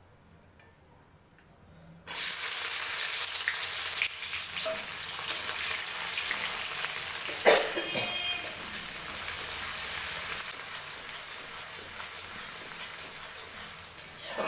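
Food frying in hot oil in a pan, sizzling. The sizzle starts suddenly about two seconds in and slowly eases, with one ringing clank of a metal utensil against the pan about halfway through.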